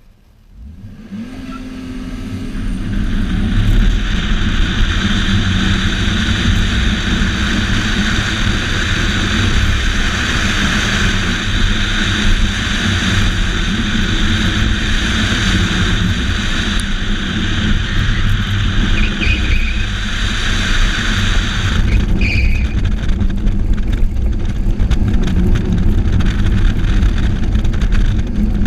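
Car engine running hard under load during an autocross run, with road and wind noise. It builds up from near quiet over the first few seconds, and a high hiss drops away about 22 seconds in.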